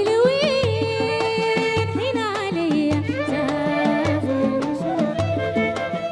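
Arabic song playing: a long, ornamented sung melody over a steady percussion beat and repeating bass notes.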